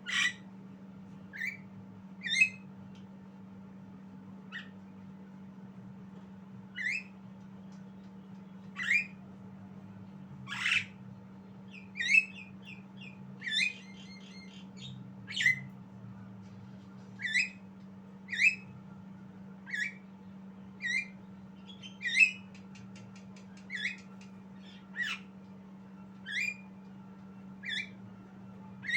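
Javan myna giving short, sharp calls about once a second, with a couple of brief rapid chattering phrases mixed in, over a steady low electrical hum.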